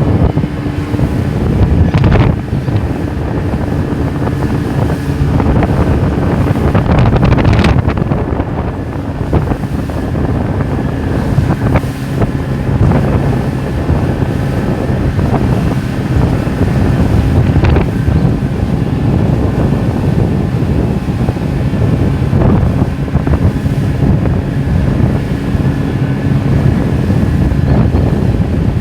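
Boat engine running steadily, with wind buffeting the microphone and a few sharp thuds or splashes from the water against the hull.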